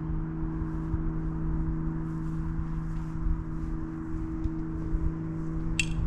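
A steady low mechanical hum over a low rumble. Near the end, sharp ringing strikes begin, about three a second.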